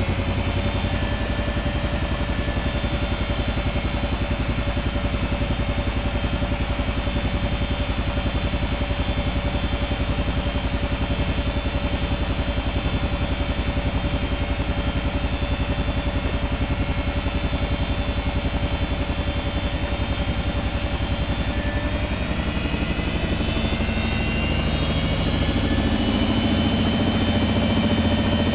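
Privileg 370 S washing machine running: a steady motor whine over a low drum rumble. About twenty-two seconds in, the pitch starts to climb and the rumble changes as the motor shifts speed.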